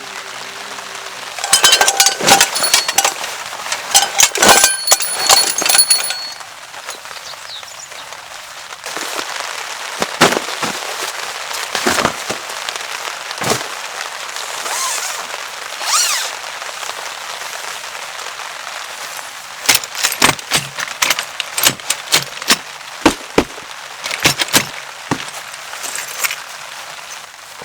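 A run of sharp clinks and knocks, some with a short metallic ring, for about four seconds, then scattered single snaps and knocks, with a clustered burst near the end, over a faint steady hiss of rain.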